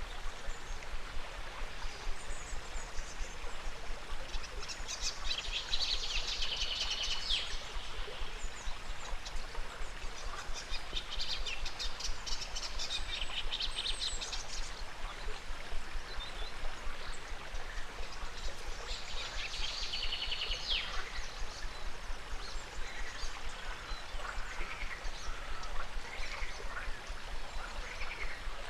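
River water running steadily, with three bursts of rapid pulsed trilling from frogs or birds, each lasting a few seconds, and short bird chirps near the end.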